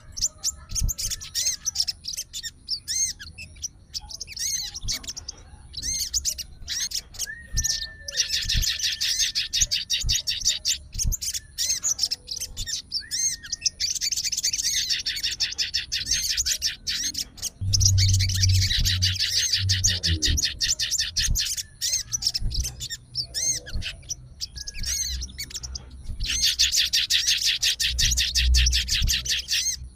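A sogon songbird singing in a fighter mood: rapid, high chattering trills in bouts of one to three seconds, with short single notes between the bouts.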